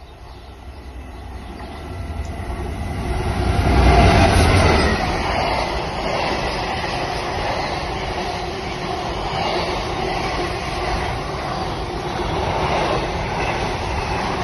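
Container freight train running through a station: the locomotive approaches and is loudest as it passes about four seconds in. It is followed by the steady noise of loaded container wagons rolling past on the rails.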